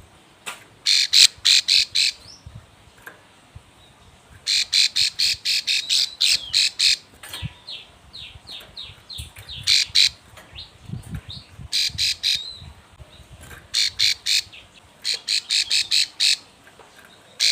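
Female plain prinia (ciblek sawah) calling in repeated bursts of rapid, sharp notes, four to seven in a row, with a run of softer down-slurred notes in the middle. These are the calls of a female in breeding condition calling for a male.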